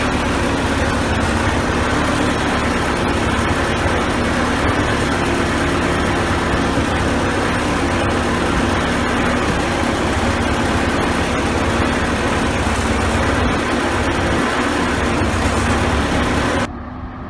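CASE 580B backhoe's four-cylinder diesel engine running steadily and loud. Near the end the sound drops suddenly to a quieter, duller engine sound.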